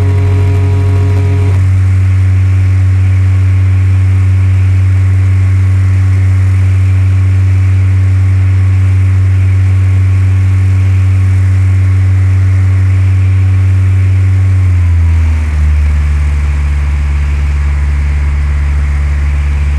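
A Cessna 172's piston engine and propeller run with a steady drone inside the cabin. About fifteen seconds in the pitch drops and stays lower, as power is pulled back. A brief steady tone sounds over the engine for the first second and a half.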